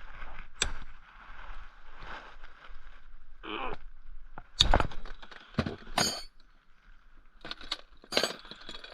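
Wrenches working the nut of a homemade bolt-and-socket bearing press on a motorcycle swingarm linkage: irregular metallic clicks, scrapes and knocks of tool on nut, washer and socket, with sharp clacks about four and a half and six seconds in.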